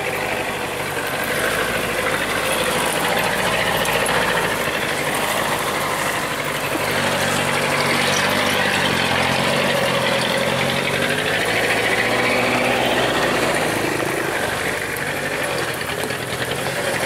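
Truck engine running steadily, with its pitch shifting up and down through the middle of the stretch.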